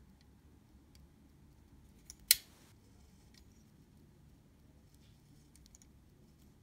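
A single sharp click about two seconds in, with a brief ring after it, amid a few faint ticks from small tools and parts being handled during work on a cloth shutter.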